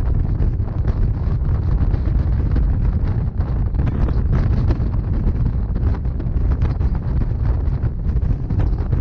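Steady running rumble of a Rhaetian Railway narrow-gauge passenger train on the rails, with wind buffeting the microphone.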